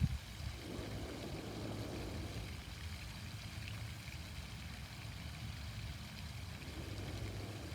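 Garden fountain water splashing steadily, over a low rumble.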